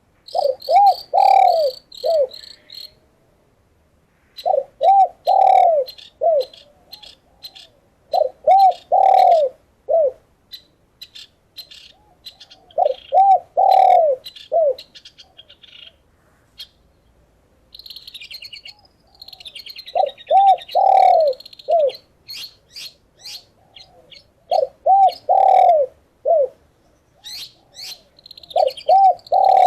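A dove cooing in repeated phrases of four or five notes, with a longer note in the middle, one phrase about every four seconds with a longer pause about halfway. High, quick chirps of small birds run between and over the coos.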